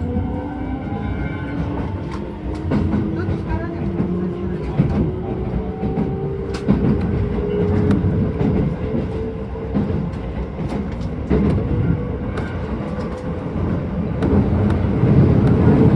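Keisei 3000 series electric train heard from inside the passenger car: the traction motors whine in several tones that climb slowly in pitch as the train gathers speed, over a steady low rumble. The wheels click sharply over rail joints, and the running noise grows louder near the end.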